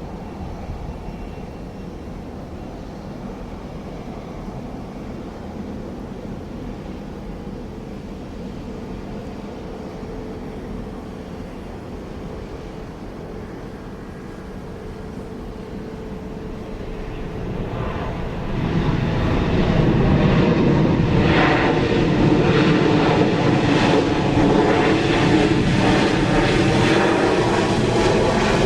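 Jet airliner's engines: a low, steady background rumble builds, and about 18 seconds in it turns loud as the aircraft passes close. The loud engine noise has a sweeping, phasing quality.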